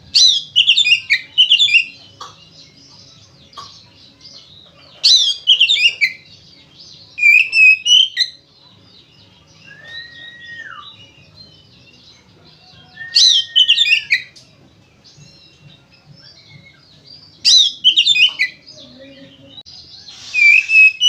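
Oriental magpie-robin (kacer) in full-voiced, combative song. It gives six loud bursts of rapid, sweeping high notes a few seconds apart, with two lower drawn-out whistles in the middle, one sliding down in pitch.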